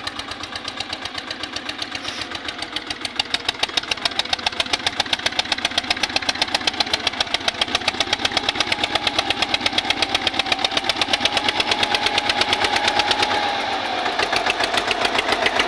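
Eicher tractor's diesel engine running with an even, rapid thumping beat, growing gradually louder.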